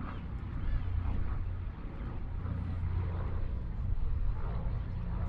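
Douglas C-41A's two radial piston engines droning steadily as the aircraft flies its display.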